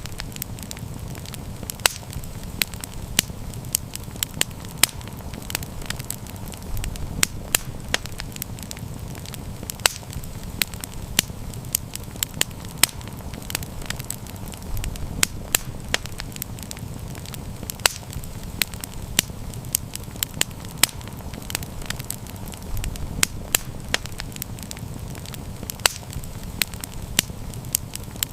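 Wood campfire burning, with a steady low rumble of flames and frequent irregular sharp crackles and pops.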